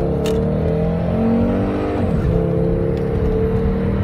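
Turbocharged 2.3-litre five-cylinder (B5234T3) of a 1998 Volvo S70, accelerating hard from about 30 mph, heard from inside the cabin. The engine note climbs, drops as the automatic transmission upshifts about two seconds in, then climbs again.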